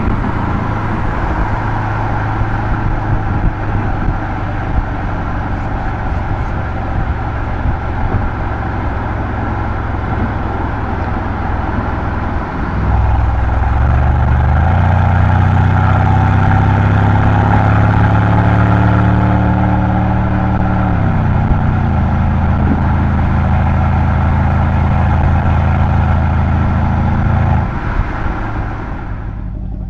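Mercedes-AMG C63's M177 V8 exhaust while driving, running steadily at first. About twelve seconds in it gets louder and rises in pitch under acceleration, holds, drops back in pitch a little past the middle, then quietens near the end as the throttle eases.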